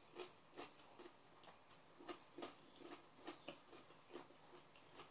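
Faint chewing of juicy pineapple with the mouth closed: small wet clicks and smacks, about two or three a second.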